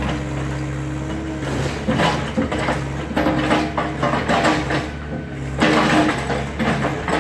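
Excavator engine running steadily under repeated bursts of crunching and cracking as demolition debris is broken and moved, the loudest burst about six seconds in.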